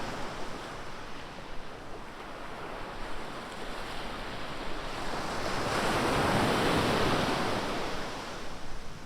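Ocean surf: a continuous wash of waves, with one wave swelling and breaking loudest from about five and a half seconds in before it recedes, and some wind on the microphone.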